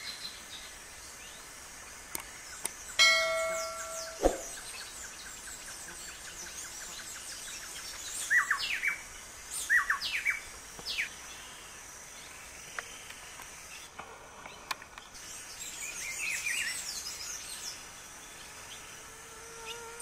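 Wild birds calling: a short held tonal note about three seconds in, a run of sharp down-slurred whistles around the middle, and clusters of high chirps later.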